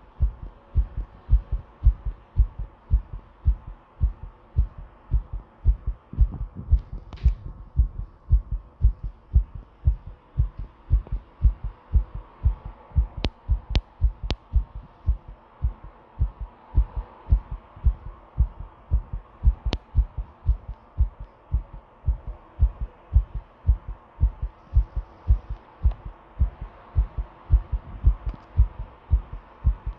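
Heartbeat recorded close up: pounding, regular lub-dub beats in pairs of low thumps throughout, with a few faint clicks in the middle.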